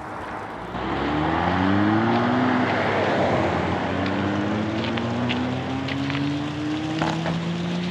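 Motor vehicle accelerating along the highway close by, tyre and engine noise swelling about a second in. The engine pitch climbs, drops at a gear change a couple of seconds later, then climbs steadily again.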